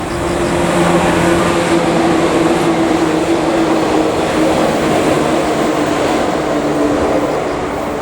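Rail cars being moved by a shunting switcher. A steady mechanical hum sinks slightly in pitch over a rumble of the running train.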